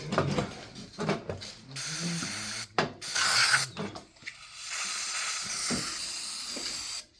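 Aerosol brake cleaner spraying into a tractor carburetor's jet passages in a few long hissing blasts that start about two seconds in, flushing sand and rust out of the carb body. A few clicks and knocks of handling the metal parts come first.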